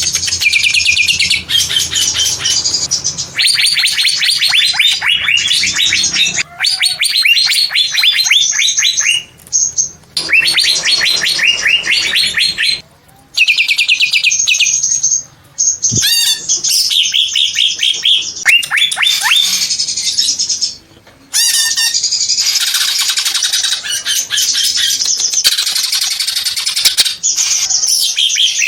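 Cucak ijo (green leafbird) singing loudly in long, rapid runs of quick, sharply falling chirps, broken by short pauses of under a second.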